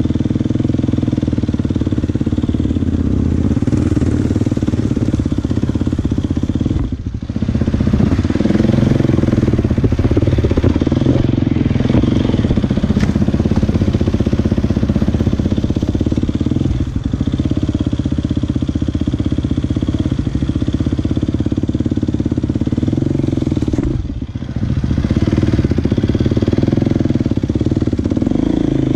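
Motocross dirt bike engine running hard under steady throttle. The engine note drops off briefly about a quarter of the way in and again near the end, where the throttle eases off.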